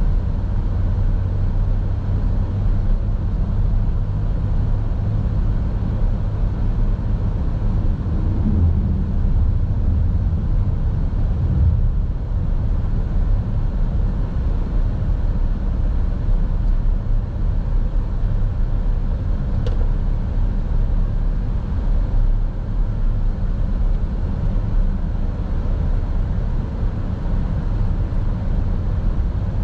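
Steady road and engine rumble of a moving car, heard from inside the cabin by a dash camera, with one faint click about two-thirds of the way through.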